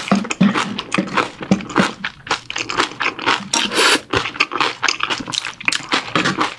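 Close-miked chewing of a mouthful of bibimbap, with wet mouth clicks and crackles throughout, mixed with a wooden spoon scraping and knocking inside an earthenware pot of cheonggukjang stew.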